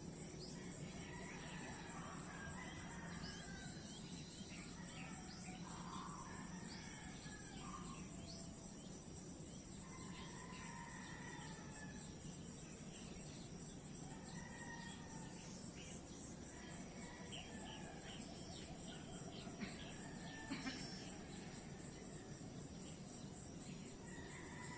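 Outdoor nature ambience: a steady, high-pitched chorus of insects such as crickets, with scattered bird chirps and calls over it.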